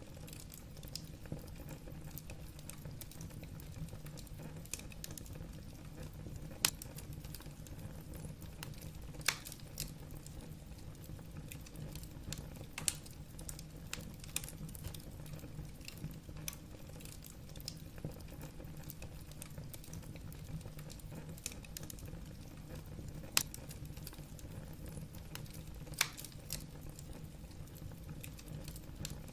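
Wood fire burning in a fireplace: a steady low rumble with constant small crackles of burning logs and a few sharper pops.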